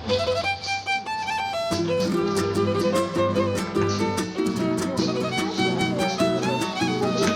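Instrumental folk music: a fiddle plays a quick melody over a plucked, rhythmic accompaniment and bass, which come in fuller about two seconds in.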